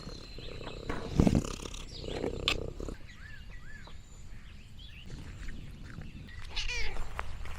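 A cat vocalising: low rumbles in the first few seconds, two short high chirps a little over three seconds in, and one falling call near the end.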